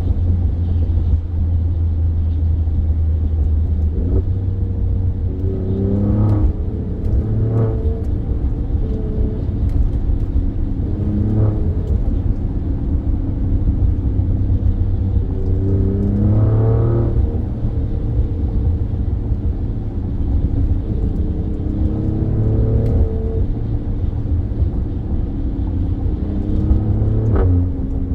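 Alfa Romeo Stelvio Quadrifoglio's twin-turbo 90-degree V6, fitted with K&N air filters, pulling hard in several bursts. Each time the engine note climbs in pitch and then drops at a gear change, over a steady low road rumble.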